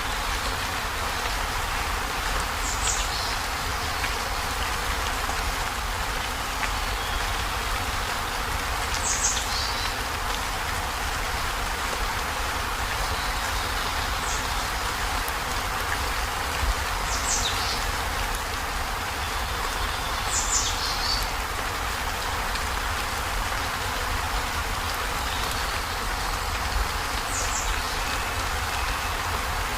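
Heavy rain drumming steadily on a corrugated zinc roof, an even hiss without let-up. A few brief, faint high chirps falling in pitch sound now and then over it.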